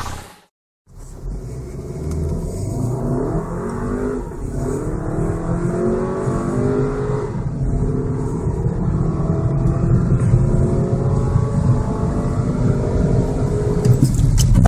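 Škoda Octavia 1.8 TSI turbocharged petrol four-cylinder accelerating hard under full throttle. The engine note climbs, then drops back briefly at each quick DSG upshift, several times in a row, after a short silent gap about a second in.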